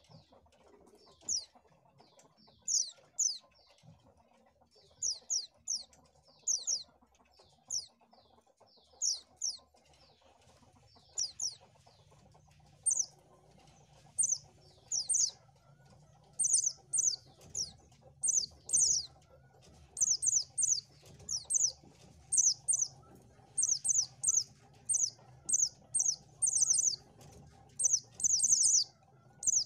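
White-eye (pleci) calling: short, very high chirps, spaced out at first and coming in quick runs of several in the second half.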